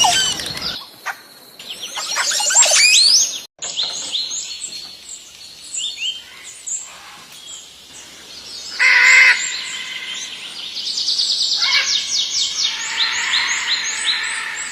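Several birds calling and chirping: many quick, high, sweeping chirps and whistles one after another, with a louder, lower call about nine seconds in.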